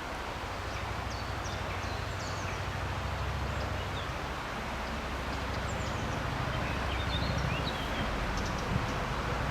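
Small birds chirping in short, scattered calls over a steady low rumble and outdoor background noise.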